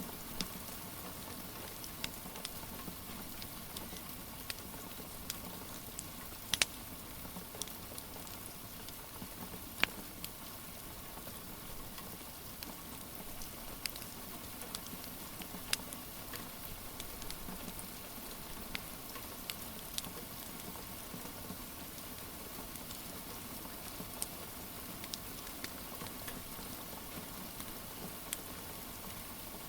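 Steady rain hissing, with scattered sharp crackles and pops from a wood fire burning in a fireplace; two louder pops come about seven and ten seconds in.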